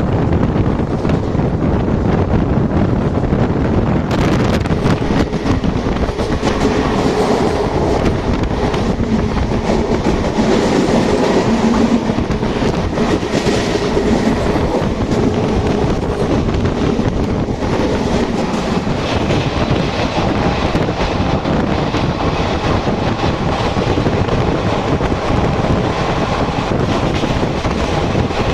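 Indian Railways express train running fast, heard from on board: wheels clattering over rail joints with a steady rumble and rush of noise.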